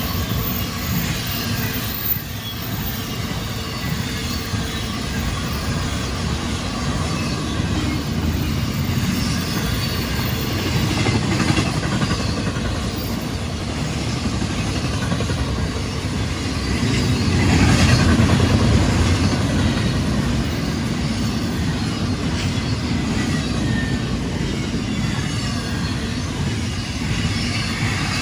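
Freight train rolling past on the rails: a steady rumble and rattle of wheels and cars, swelling for a couple of seconds about two-thirds of the way through.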